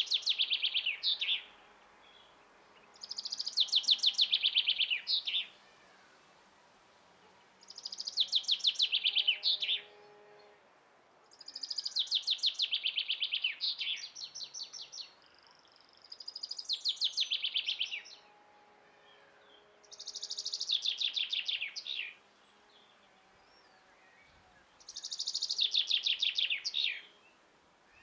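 A songbird singing the same short song over and over, seven times, about every four seconds. Each song is a fast run of notes that falls in pitch over about two seconds and ends in a brief flourish.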